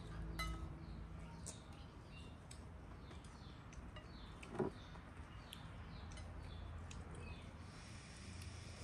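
Small birds chirping over and over with quick, high, downward-sliding calls, over a low steady background rumble. One short knock sounds about halfway through.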